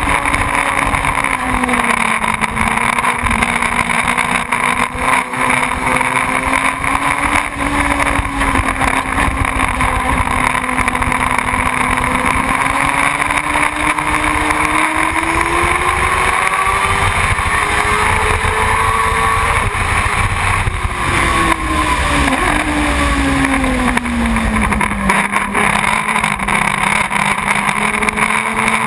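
Motorcycle engine running under way, its pitch rising and falling slowly with the throttle, with wind rumbling on the microphone.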